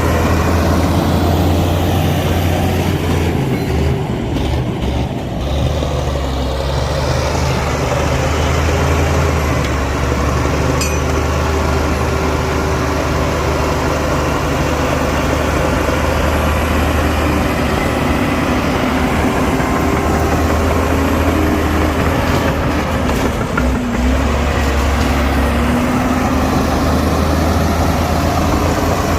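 Heavy diesel earthmoving machinery running steadily with a low engine drone, working soil.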